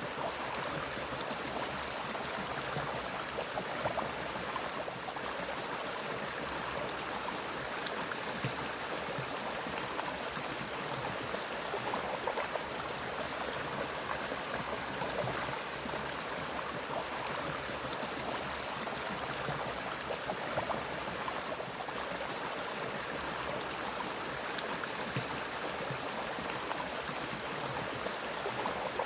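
Mountain stream flowing: a steady rush of water, with a constant high-pitched whine above it.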